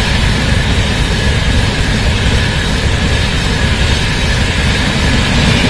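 An Indian Railways express's LHB passenger coaches passing at high speed, a loud, steady rush and rumble of wheels on rail.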